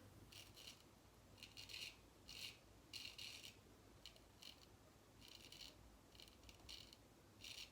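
Faint, short scraping strokes of a Japanese frameback straight razor cutting stubble through lather, about ten strokes, each a fraction of a second, with brief pauses between.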